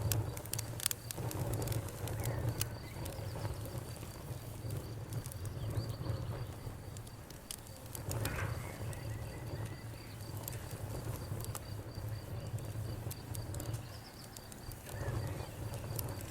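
Wood fire in a fireplace crackling, with scattered sharp pops and snaps over the steady low rumble of the flames. The pops come thickest in the first few seconds and again near the end.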